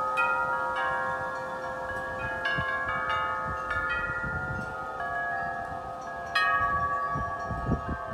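Wind chimes ringing in strong wind, struck again and again so that their long tones overlap, with one loud strike about two-thirds of the way through. A low rumble of wind gusts swells underneath in the second half.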